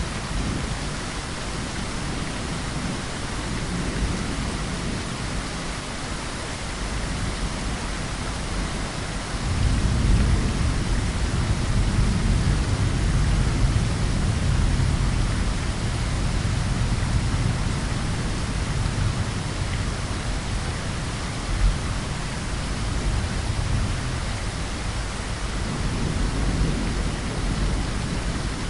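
Steady heavy rain hissing, with a deep roll of thunder rumbling in about a third of the way through, fading slowly, and swelling again briefly near the end.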